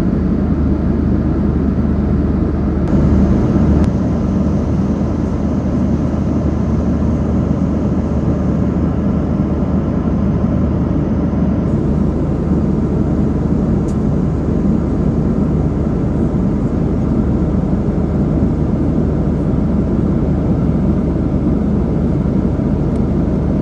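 Steady cabin noise of a moving vehicle: a constant low drone and rumble that holds level throughout.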